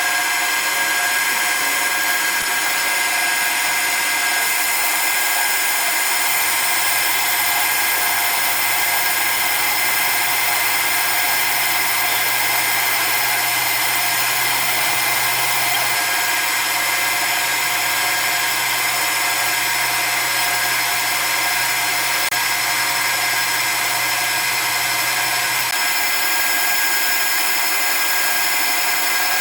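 Precision grinding machine running steadily, its grinding wheel whining with a steady hiss as it grinds a pin grinder collet. A low hum joins about six seconds in and drops out near 26 seconds.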